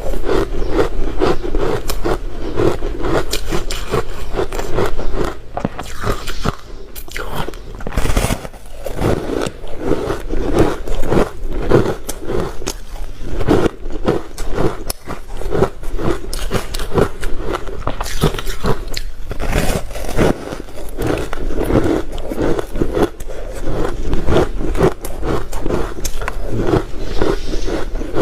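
Ice being bitten and chewed up close, a rapid run of loud crunches.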